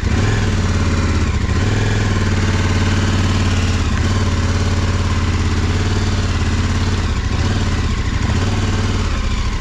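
Motorcycle engine running steadily at low revs, with brief dips in pitch about a second and a half in and again near the end.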